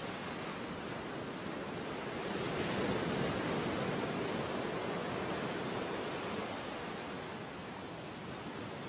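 Sea surf: a steady wash of waves, swelling to a louder surge about two and a half seconds in and easing back off after about six seconds.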